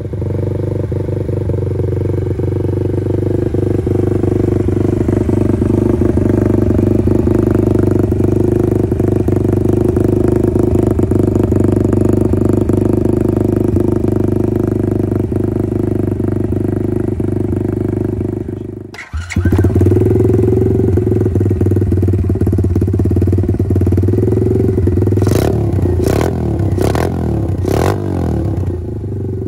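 125 cc XMOTOS XB66 pit bike's single-cylinder four-stroke engine idling steadily, with a brief break a little past halfway. Near the end it is blipped about four times in quick succession, each rev rising and falling back to idle.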